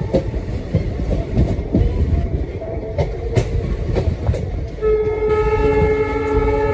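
Diesel-hauled passenger train running, heard from aboard, with a low rumble and wheels knocking over rail joints. About five seconds in, the locomotive's air horn sounds a long, steady blast.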